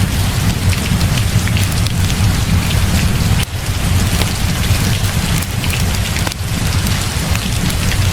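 Heavy rain pouring steadily, with a deep low rumble underneath and many small sharp ticks and crackles; the sound dips briefly twice.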